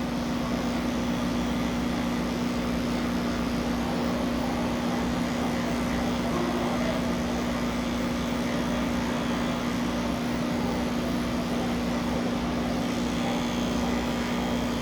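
Electric pet clippers running with a steady hum.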